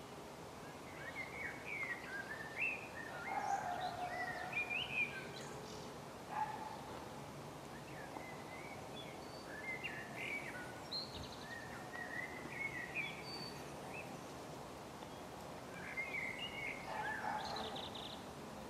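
Songbirds singing short chirping phrases in three bouts, over a steady outdoor background noise.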